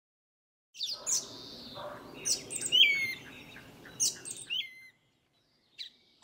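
Birds chirping over a steady low outdoor background, starting about a second in and fading out after about five seconds, with one more brief chirp just before the end.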